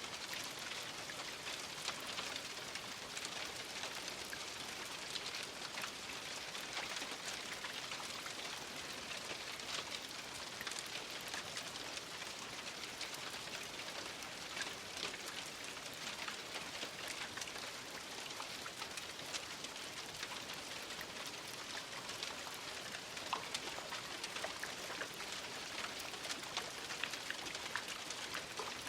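Steady rain falling, an even hiss of rainfall with many distinct drop ticks scattered through it.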